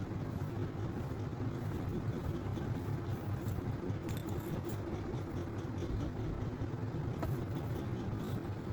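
Steady low engine drone, an even running hum without change in speed, with a few faint ticks over it.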